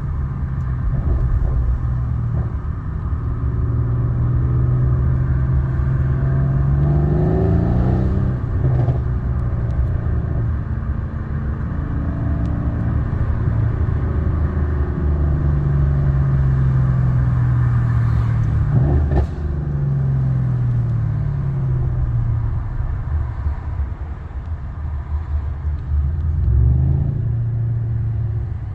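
Mercedes-AMG C63 S engine running with a steady low rumble, its revs rising briefly about a quarter of the way in, dropping again just past the middle, and rising once more near the end.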